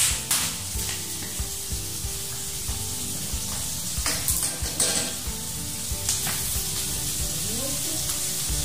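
Food frying in a wok, a steady sizzle broken by scattered sharp clinks and scrapes as it is stirred.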